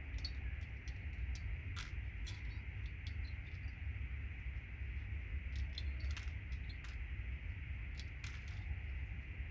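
Irregular small, sharp clicks and ticks of thin metal contact pins and plastic as the pins of RJ45 connectors on a patch panel are bent back and pulled out by hand, over a steady low hum.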